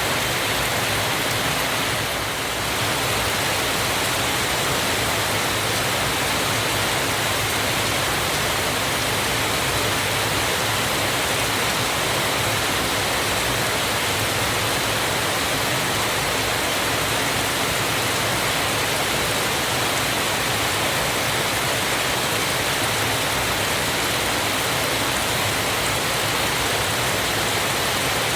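Waterfall: a steady rush of falling water, even and unbroken, with a slight dip in level about two seconds in.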